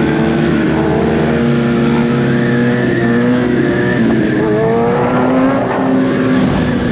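Motorcycle engines running on the move, several engine notes rising and falling gently in pitch with throttle, over steady wind and road noise.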